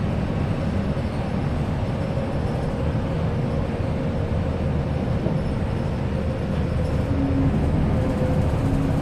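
Moving bus heard from inside the cabin: a steady low rumble of engine and road noise, with a faint steady hum that gets a little louder near the end.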